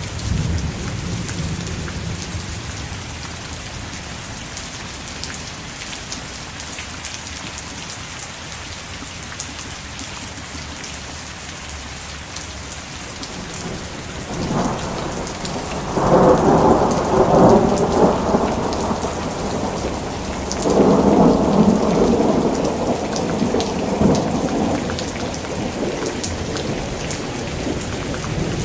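Steady rain with thunder: a low rumble fading at the start, then two longer, louder rolls of thunder, the first starting about halfway through and the second a few seconds after it.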